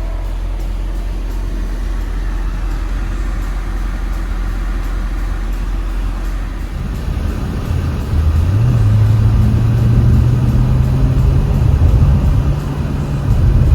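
Chevrolet C7 Corvette's V8 running after its misfire repair: a steady low drone at first, then from about seven seconds in the engine note rises in pitch and level and holds higher.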